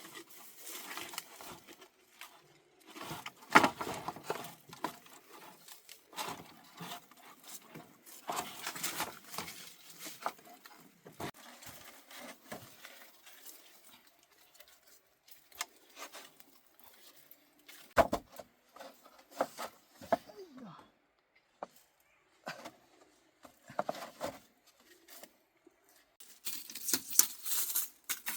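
Irregular taps, knocks and rustling of hand work with building materials, with a sharp knock about three seconds in and another at about eighteen seconds, and denser rustling near the end.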